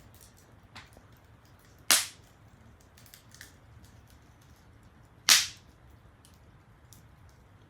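Wood fire crackling faintly, with two sharp, loud pops from the burning firewood about three and a half seconds apart.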